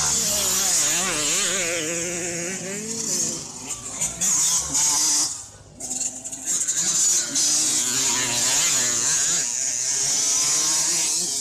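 Two-stroke 65cc and 85cc youth motocross bikes racing, their engines revving up and down with the pitch rising and falling, and a short drop in level a little past halfway.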